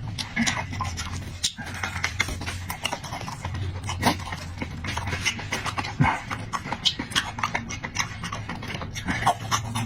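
Close-miked eating sounds: irregular wet chewing clicks and lip smacks over a low steady hum.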